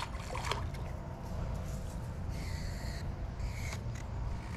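A bird giving two short, crow-like caws near the middle, over a steady low rumble of wind on the microphone.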